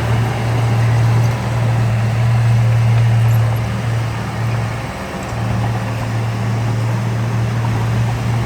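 Heavy diesel engine of earthmoving machinery running steadily under load with a deep, even drone, easing off for a moment about five seconds in before picking up again.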